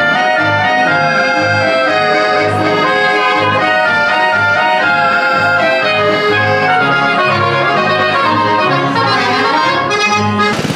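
Swiss folk dance music, a bright melody over a steady oom-pah bass line, which starts and cuts off abruptly.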